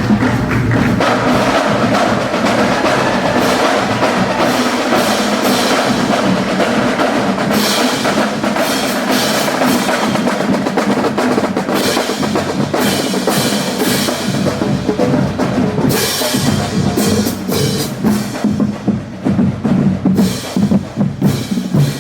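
Marching band playing loudly, horns over a driving drumline of snare and bass drums with repeated cymbal crashes; in the last few seconds the sound thins to mostly drums in a pulsing cadence.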